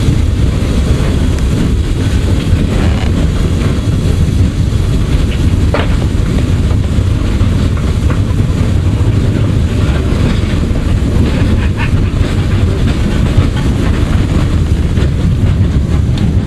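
PKP Ol49 steam locomotive running along the line, heard from its footplate: a loud, steady rumble and rattle, with a couple of sharp clicks about a third of the way in and again later.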